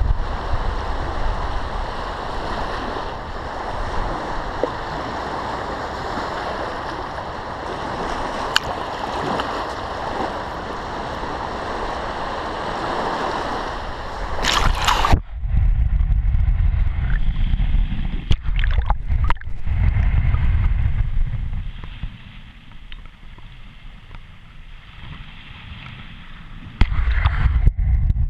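Shallow lake water washing and lapping at the shore. About halfway through the sound turns abruptly muffled, with the highs gone, leaving a heavy low rumble.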